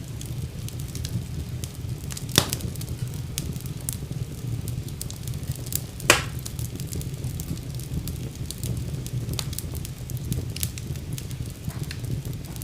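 Fire burning in a fireplace: a steady low rumble of flames with scattered crackles, and two louder pops, one about two seconds in and another about six seconds in.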